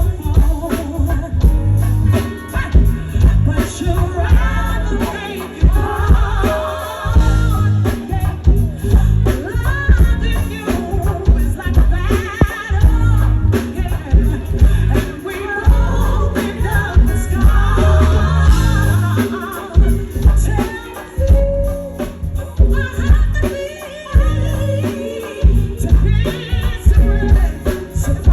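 A woman singing live over a band, with heavy bass and drums driving a steady beat.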